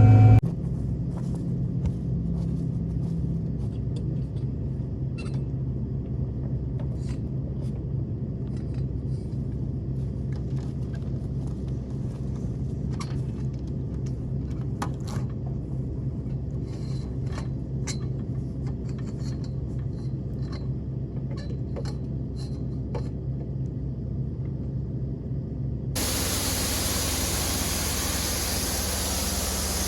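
Farm vehicle engine running steadily with a low hum, with scattered light clicks and rattles. Near the end it switches suddenly to a louder, rushing vehicle noise.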